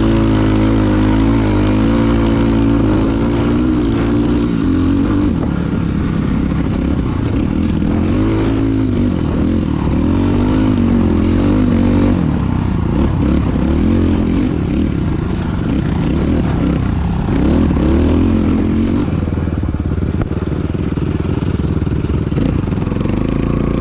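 Dirt bike engine running and revving up and down again and again, its pitch rising and falling throughout.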